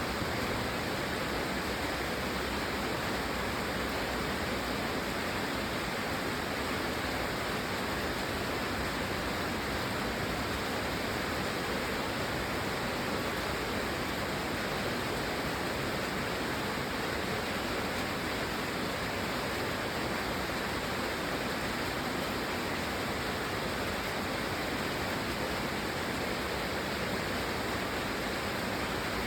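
Steady rain, an even hiss with no single drops or gusts standing out.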